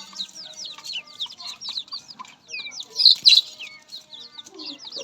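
A flock of farmed birds chirping all together, a dense, continuous stream of short falling chirps, with a louder flurry about three seconds in.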